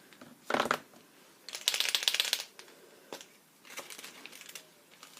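A short knock, then a paint marker shaken for about a second, its mixing ball rattling inside, followed by a few light clicks from handling it.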